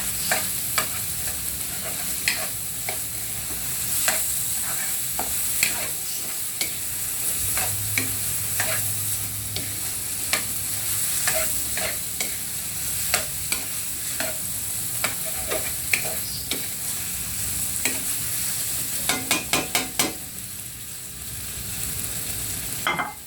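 Food sizzling in a frying pan while a spatula stirs and scrapes, its strokes clicking against the pan. Near the end comes a quick run of about six knocks, after which the stirring stops and only the sizzle goes on, quieter.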